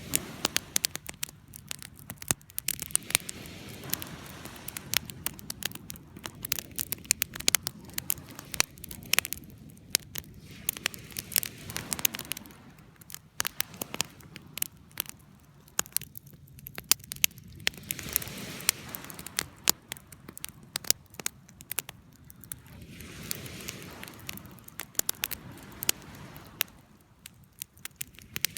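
Campfire crackling, with frequent irregular sharp pops over a low steady rush of the flames.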